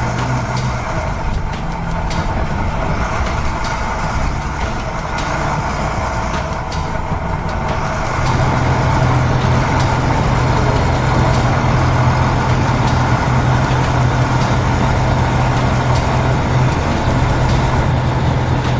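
Heavy construction-vehicle engine running steadily, as a cartoon sound effect. It gets louder about eight seconds in and holds there.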